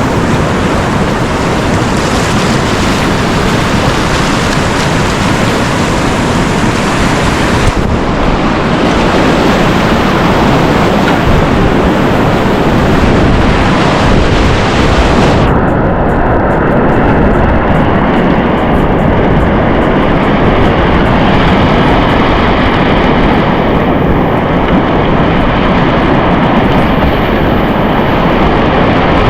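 Loud rushing whitewater mixed with wind noise on the camera microphone. The sound changes abruptly about eight seconds in and again about fifteen seconds in. In the last part a few faint steady tones sit over the noise.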